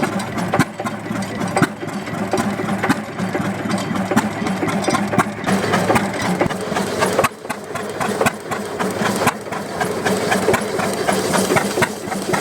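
Early-1930s Deutz stationary engine running steadily, with a busy mechanical clatter of rapid knocks over a steady low drone.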